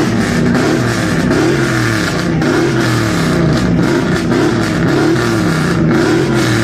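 Car engine being revved again and again, its pitch rising and falling in quick repeated arcs, loud and continuous.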